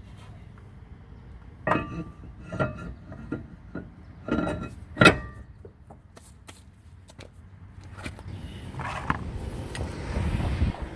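Metal tools and brake parts clinking and knocking, a handful of sharp strikes that ring briefly, the loudest about five seconds in. Near the end a low rushing, rumbling noise builds for a few seconds.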